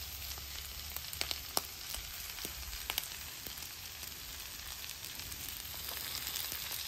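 Ground beef and onions sizzling on a hot Blackstone flat-top griddle: a steady hiss, with a few sharp clicks in the first three seconds.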